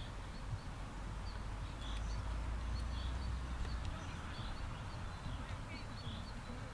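Small birds chirping, short calls repeated every second or so, over a steady low rumble that swells around the middle.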